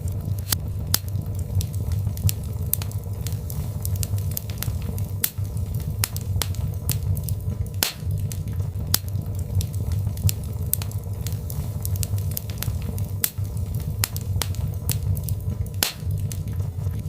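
Birch logs burning in a fireplace: irregular sharp crackles and pops, several a second, over a steady low rumble.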